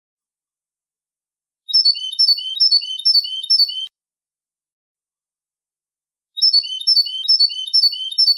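European goldfinch song: a two-second phrase of about six quick repeated high notes, heard twice with silence between, the second starting about six seconds in.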